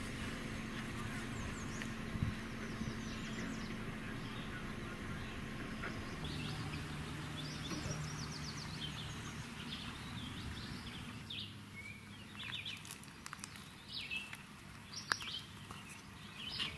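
Songbirds chirping and singing in short, quickly repeated phrases over a steady low background hum, which fades about eleven seconds in. A few sharp clicks near the end.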